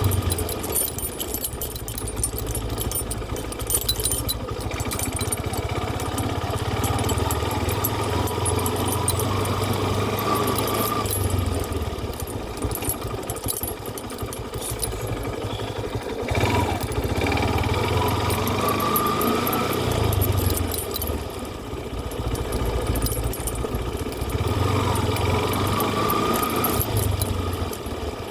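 An engine running steadily with a continuous low rumble and a few brief rising whines.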